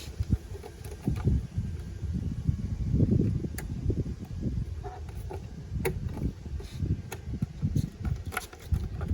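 Hands working on a car's plastic trim: a few sharp clicks and taps, the clearest about three and a half, six and eight and a half seconds in, over an uneven low rumble like wind buffeting the microphone.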